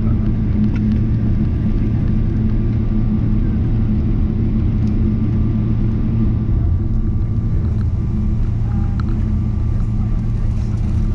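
Steady low rumble of cabin noise inside a Boeing 777-300ER taxiing after landing, with the engines at idle and the cabin air running, and a few faint clicks.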